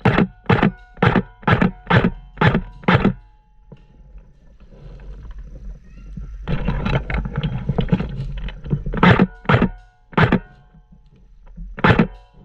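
Airsoft gun fired in single shots, about two a second for the first three seconds. A denser rattle of shots follows about six to nine seconds in, then a few more single shots near the end.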